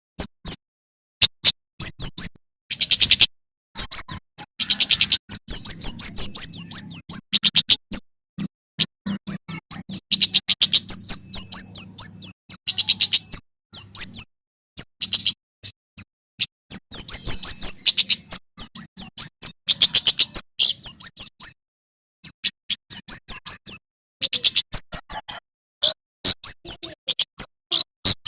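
Male prenjak keres (kemade jawa) songbird singing: rapid runs of sharp, high chirps, many a second, each run lasting a few seconds and broken by short pauses.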